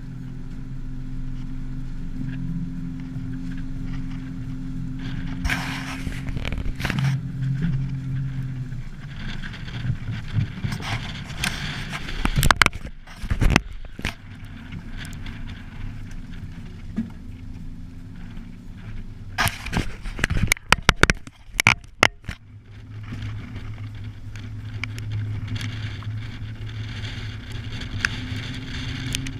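An engine running steadily with a low hum, broken by two clusters of loud sharp knocks and bangs, one about twelve seconds in and another about twenty seconds in.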